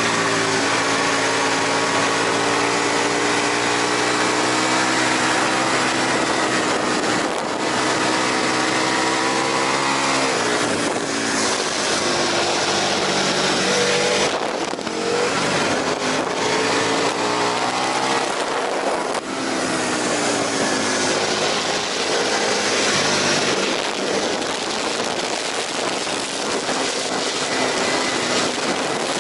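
Aprilia RSV 1000 Factory's V-twin engine running hard on track over heavy wind rush. Its pitch climbs, then falls away about ten, fourteen and nineteen seconds in as it brakes and shifts, and climbs again after each.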